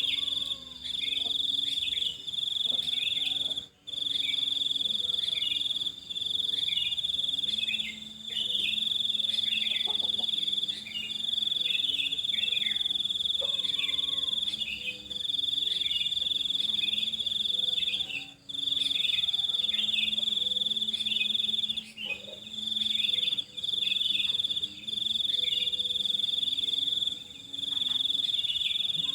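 A steady, high-pitched insect trill, like a cricket, runs on with brief breaks every few seconds. Under it, birds chirp in many short, falling notes.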